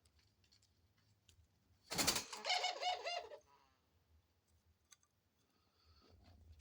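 A pet dove calling: a harsh burst about two seconds in, then a quick run of repeated cooing notes, about five a second, lasting roughly a second and a half.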